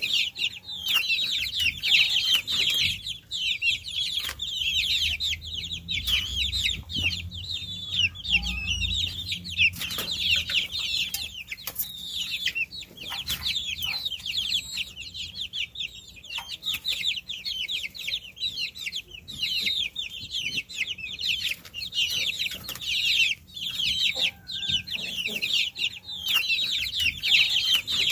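A brood of baby chicks peeping nonstop: many overlapping high, quickly falling chirps, with scattered sharp clicks among them.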